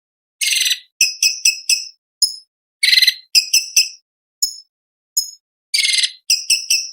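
Cucak cungkok (orange-bellied leafbird) singing: quick strings of sharp, high chipping notes broken by three short, harsh rasping bursts, in phrases with brief pauses.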